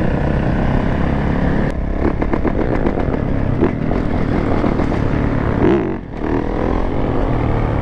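Dirt bike engine running under throttle while riding, with a rapid rattling about two seconds in and a brief drop in level just before six seconds.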